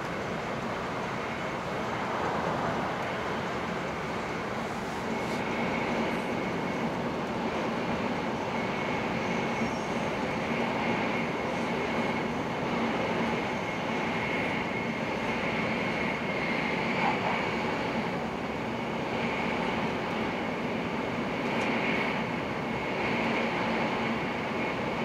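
Cabin noise inside a Hokuriku Shinkansen car running at speed: a steady rumble and rush of wheels on rail and passing air, with a faint steady high whine above it.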